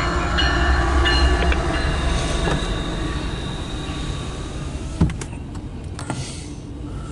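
CSX intermodal freight train rolling past: a heavy low rumble with steady high wheel squeal, fading away as it goes by. A single sharp knock about five seconds in.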